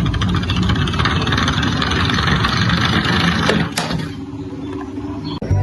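A toy vehicle's steady mechanical rattle and whirr, with fast even ticking, that drops away sharply about four seconds in.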